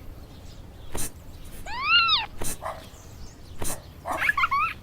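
A kitten meowing: one call rising then falling in pitch about two seconds in, and a second, wavering call near the end, with short sharp taps about a second apart between them.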